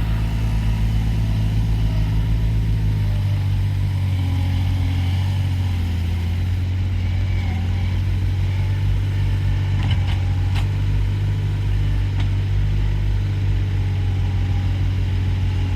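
Avant 423 compact loader's diesel engine running steadily at work, with a couple of light knocks about ten seconds in.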